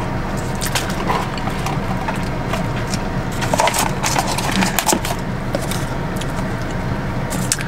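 Close-miked chewing: wet mouth clicks and smacks coming irregularly, over a steady low hum inside the car.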